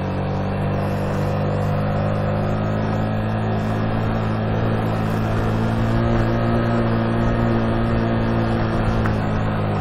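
Motorcycle engine running steadily at low road speed, its pitch holding nearly level.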